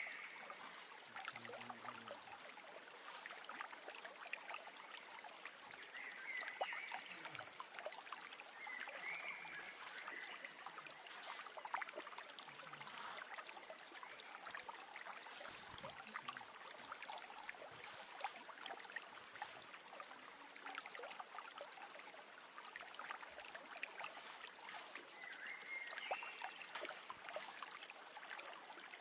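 Nature ambience of a running stream, a steady trickling and burbling, with a few short bird chirps now and then.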